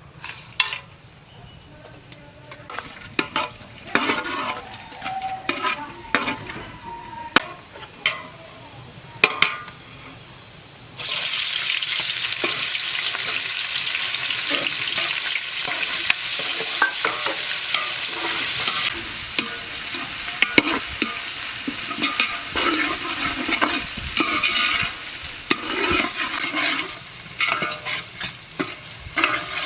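Cooking in a large pot over a fire: knocks and clatter of utensils at first, then about eleven seconds in a loud sizzle starts suddenly as food goes into hot oil, and carries on under repeated stirring and scraping.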